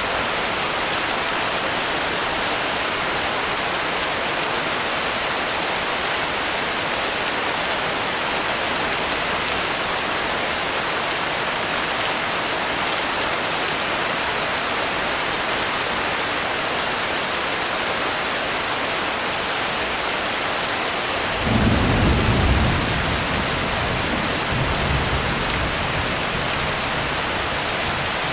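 Steady heavy rain. About 21 seconds in, a low rumble of thunder breaks in suddenly for a second or two, followed by a second, weaker rumble a few seconds later.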